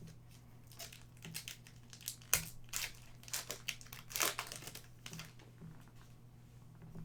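Foil wrapper of a 2020 Upper Deck Artifacts hockey pack crinkling as it is torn open and handled, in a quick run of crackles that peaks twice, about two and four seconds in, then dies away.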